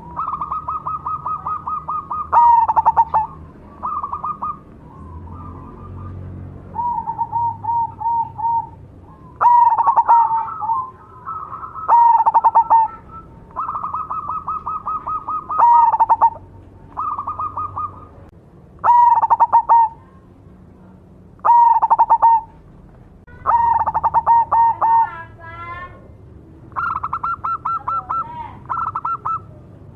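Perkutut cemani (black zebra dove) cooing in a repeated series of rapid, rattling trilled phrases, one every second or two. Some phrases open with a loud sharp note that falls in pitch.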